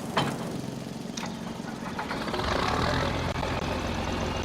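John Deere 4020 tractor engine running, with a couple of sharp clicks in the first second or so; about two seconds in the engine note grows louder and fuller, as if throttled up or put under load.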